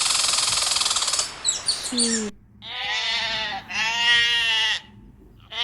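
A squirrel's shrill, high-pitched chattering call cuts off after about a second. Then comes a domestic sheep bleating twice, each bleat lasting about a second.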